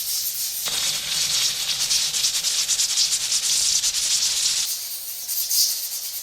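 Pressure cooker's weight valve rattling and hissing as it vents steam, a sign that the cooker is up to pressure. The hiss grows fuller about a second in and thins again near five seconds.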